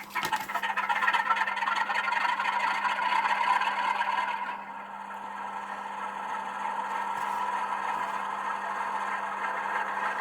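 Model Class 47 diesel locomotive's sound decoder playing its engine start-up sound through the model's small speaker: the engine starts abruptly and runs loud for about four and a half seconds, then settles to a quieter, steady idle.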